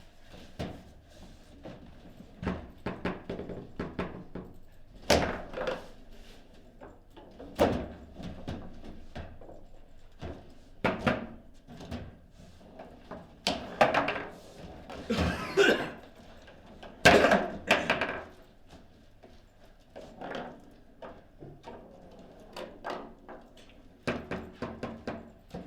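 Table football in play: irregular knocks and clacks of the ball being struck and the rods jolting, with several louder hits spread through.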